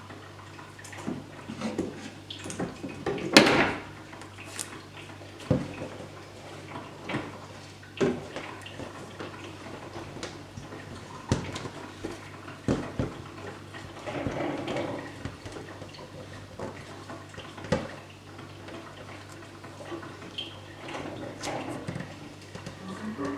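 Tape being pulled off a roll with a short tearing rip a few seconds in, then scattered clicks and knocks as wires are taped down against wooden boards, over a low steady hum.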